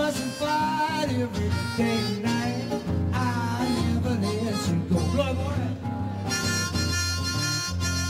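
Harmonica playing a blues line over guitar accompaniment, with notes bent in pitch, then a held chord through the last couple of seconds.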